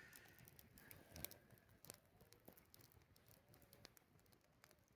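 Near silence, with faint, irregular crackles and ticks from a small campfire.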